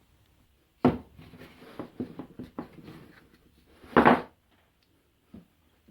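Wooden pieces being handled and set down: a sharp knock about a second in, light taps and scrapes, then a louder knock about four seconds in.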